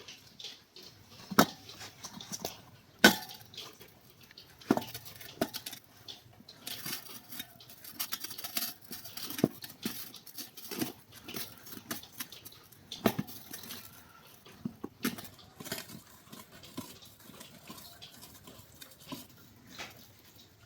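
Irregular metallic clicks, taps and clinks of hand tools and small metal parts being handled, with a few sharper knocks about one and a half and three seconds in and again past the middle.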